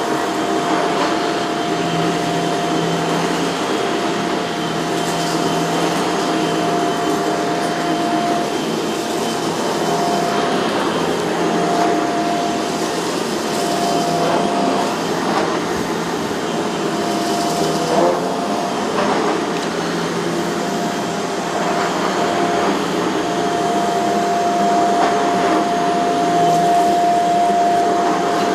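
Shark CZ351 canister vacuum running steadily while vacuuming a dirty rug, its motor tone wavering as the head is pushed back and forth, with a brief sharp click about two-thirds of the way through.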